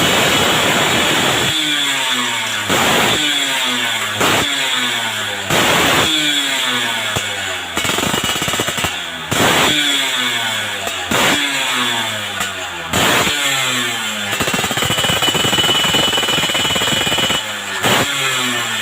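Yamaha F1ZR two-stroke motorcycle engine revved repeatedly through an AHM racing exhaust. Sharp throttle blips come about every one to two seconds, and the pitch falls back down after each one.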